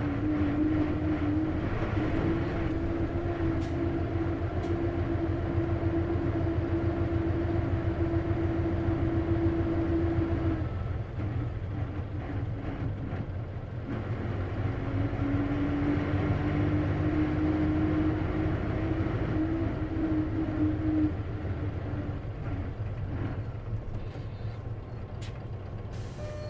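Isuzu KC-LV380N city bus heard from inside while underway, its engine rumbling with a distinct whine that runs for about ten seconds, breaks off, and returns for about six seconds. The whine is the abnormal noise this bus is known for, which the owner suspects may be a symptom that can occur on manual-transmission buses.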